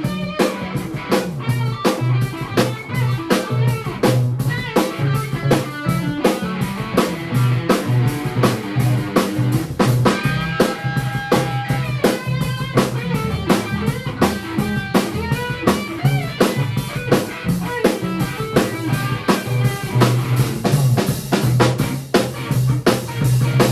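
Live rock band playing an instrumental break, with electric guitar, bass and a drum kit keeping a steady beat.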